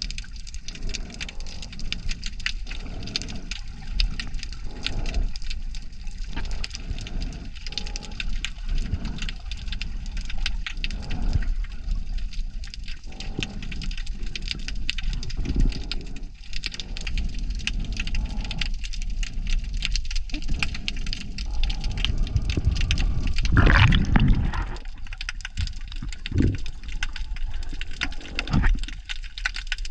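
Underwater ambience picked up by the camera's microphone: a constant dense crackle of tiny clicks over low water surges and thumps, with one louder gushing swell about three quarters of the way through.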